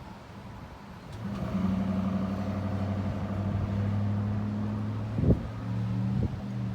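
Diesel locomotive of a commuter train approaching, its steady engine drone rising about a second in. Two sharp knocks come near the end.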